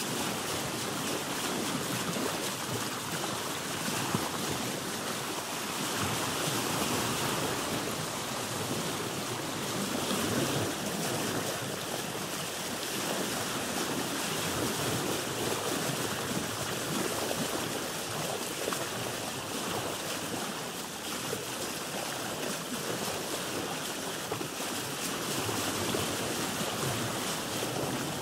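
Sea water sloshing and lapping against a boat's hull: a steady wash of water that swells and eases gently every few seconds.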